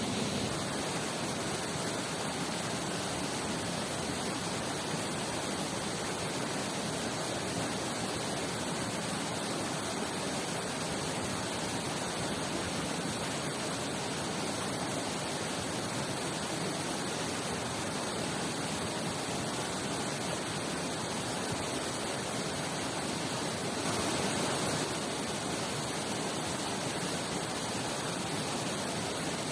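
Steady rushing of a waterfall and mountain river, an even unbroken roar of water that swells slightly for about a second near 24 seconds in.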